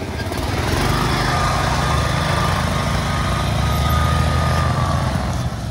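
Modified riding lawn mower engine running steadily under load, getting louder about a second in, with a faint steady whine over it.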